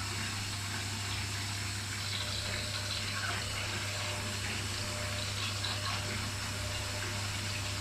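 Washing machines running: a steady rush of water as the Arctic fills for its rinse over a steady low hum, with the Electrolux in its final 700 rpm spin.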